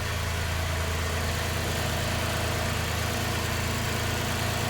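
2018 Toyota Highlander engine idling steadily after a fresh battery start: a low, even hum.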